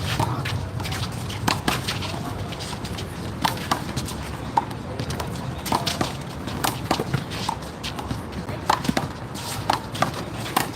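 Rally in one-wall handball: a rubber handball is slapped by hands, hits the wall and bounces on the court, giving a run of sharp, irregular smacks, several a second at times.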